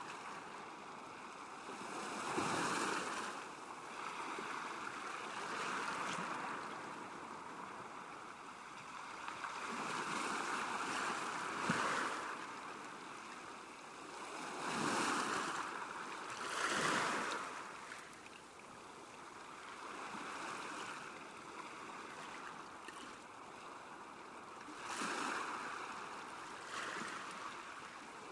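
Small waves lapping at a lakeshore, each wash swelling and fading every few seconds.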